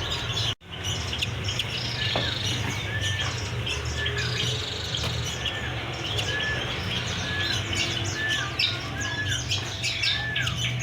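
Many caged songbirds chirping and calling together. One bird repeats a short hooked note roughly every second, over a steady low hum.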